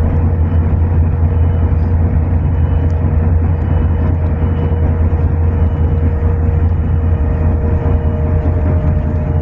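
Tram in motion heard from inside the car: a steady low rumble with a constant motor whine above it.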